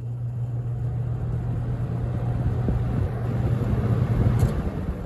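Holmes HABF-20 box fan on medium speed: a steady motor hum with the rush of air from the blades building up. Near the end a click, and the hum stops while the air noise dies away.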